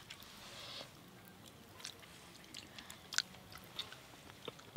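Faint eating sounds: a person chewing a mouthful of rice and fish curry, with scattered small wet clicks and mouth noises. A short soft hiss at the start, and the sharpest click about three seconds in.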